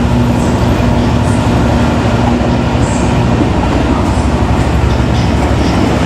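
Class 67 diesel locomotive's two-stroke V12 diesel engine running under power, a loud, steady low drone as the train pulls away.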